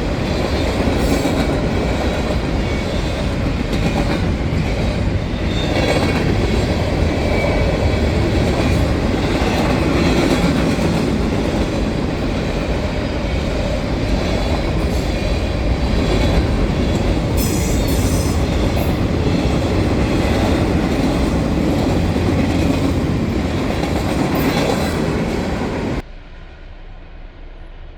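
Freight train cars rolling past at speed: a steady rumble with clickety-clack from the wheels over rail joints and a brief high squeal. The sound drops suddenly near the end to a much fainter, duller noise.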